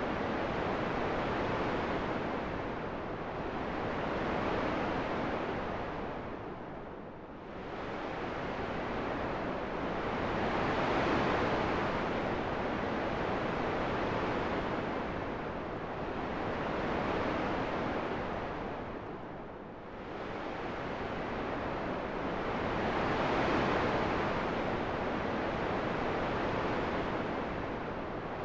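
Wind sound: a steady, even rushing noise that swells and fades in slow surges every ten seconds or so, easing off most about seven and twenty seconds in.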